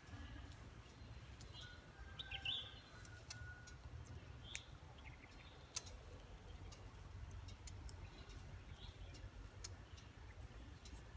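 Faint outdoor ambience: a steady low rumble with a few short, high bird chirps and scattered faint clicks.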